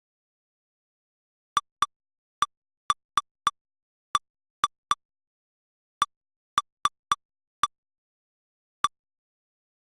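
Short, identical electronic clicks from a lightning-detector history replay, about fifteen of them at irregular intervals, with silence between.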